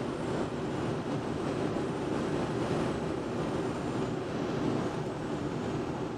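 Steady rush of airflow and wind noise in a glider's cockpit on a gusty approach with spoilers out, an even rumbling hiss with no engine note.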